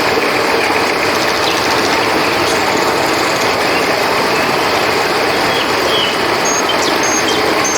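Steady rush of flowing river water, with faint high cricket chirps and a short trill above it.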